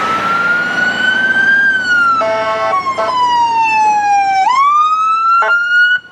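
Fire apparatus siren wailing: its pitch rises, slides slowly down over a few seconds, then climbs quickly again. A short horn blast sounds over it about two seconds in, and the siren cuts off abruptly near the end.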